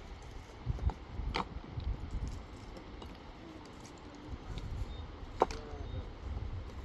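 A few sharp clacks of stone knocking on stone during dry-stone house building, the loudest about five and a half seconds in, over a low steady rumble.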